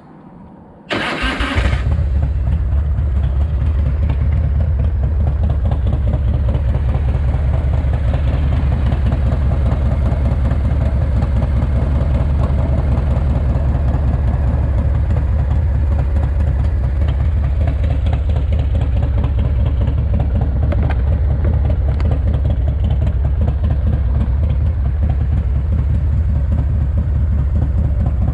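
A rebuilt S&S 107ci V-twin in a 1985 Harley-Davidson FXRT is started: a brief burst of cranking about a second in, then the engine catches and runs at a steady, loud idle. The engine is freshly rebuilt and still in its break-in miles.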